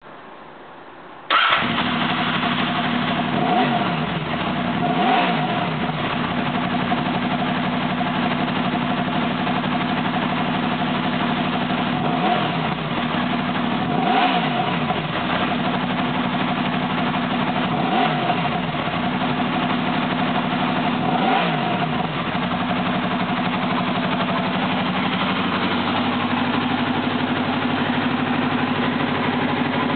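Honda VFR800's V4 engine breathing through a one-off R-style muffler with an RSTC system in the silencer. It fires up about a second in and idles, is blipped six times in quick rising-and-falling revs, and then settles into a steady idle.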